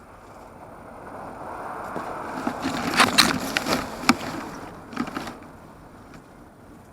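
X101 quadcopter's propellers buzzing against gusting wind on its on-board camera, a rushing noise that swells and fades, with several sharp knocks about three to five seconds in.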